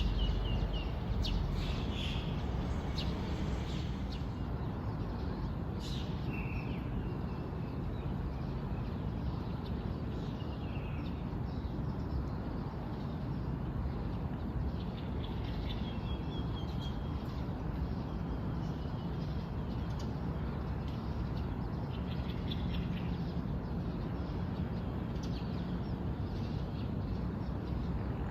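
Small birds chirping, with short calls and brief trills every few seconds over a steady outdoor background hiss.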